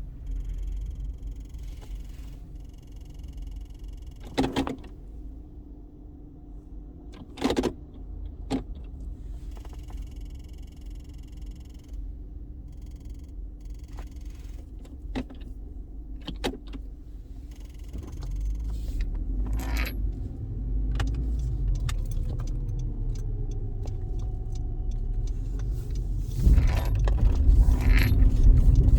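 2013 Honda Civic running in drive, a steady low hum with sharp clicks at irregular intervals every second to several seconds. It is the tick that the owner hears only in drive, cause unknown; some have suggested an electrical fault. The rumble grows louder about two-thirds of the way through and again near the end.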